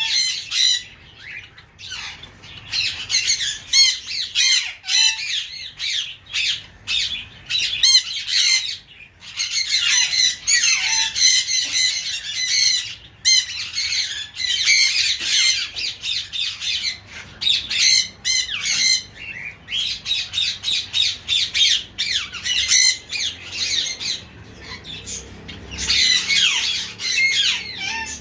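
Many small cage birds in a breeding aviary calling over one another: shrill, chattering calls in quick overlapping runs, with short lulls now and then.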